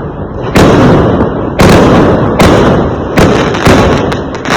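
Fireworks exploding: about six loud, sharp bangs, roughly one every half to one second, each trailing off before the next.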